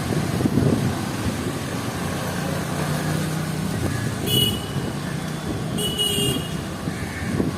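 City street traffic with vehicle engines running past, and two short high-pitched horn toots about four and six seconds in.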